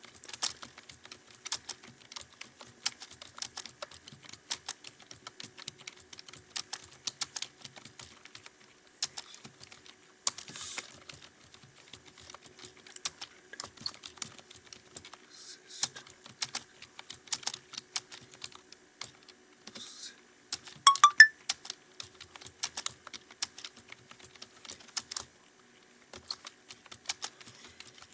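Fast, continuous typing on a computer keyboard: an uneven stream of key clicks, with a louder cluster of strokes about three quarters of the way through and a brief pause near the end.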